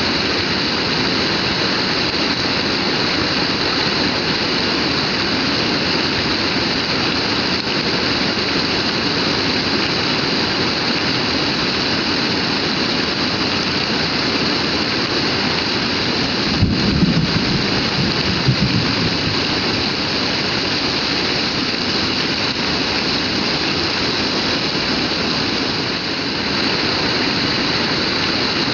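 Heavy rain pouring steadily, a dense even hiss. A brief low rumble swells up a little past halfway and fades within about two seconds.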